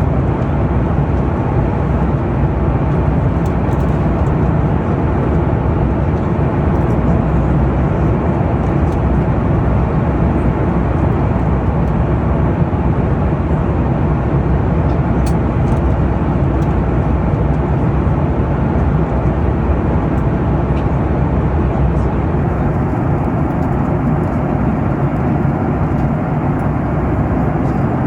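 Steady cabin noise inside a Boeing 737-9 MAX in flight: an even rushing hum of the engines and the air flowing past the fuselage.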